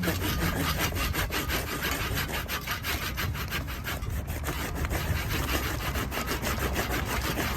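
Hand saw cutting into a wooden log with quick, even back-and-forth strokes.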